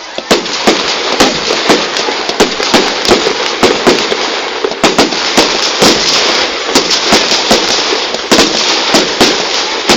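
Fireworks going off in quick succession: a dense run of sharp bangs and crackles, several a second, over a continuous hiss.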